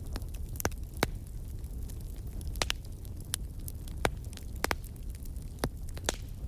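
Wood fire crackling in a fireplace: a steady low rumble of flames with sharp, irregular pops and snaps about once or twice a second.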